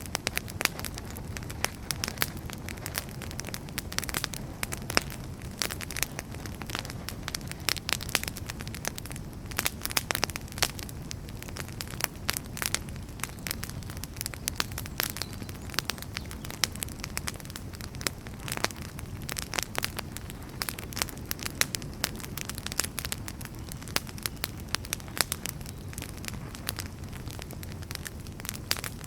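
Wood fire burning, with a steady low rumble and frequent irregular sharp crackles and pops from the burning firewood.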